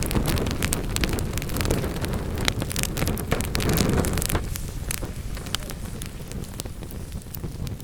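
Wood fire burning in a fireplace: a low rumble of flames with many sharp crackles and pops of burning wood, the rumble easing about four seconds in while the crackling continues.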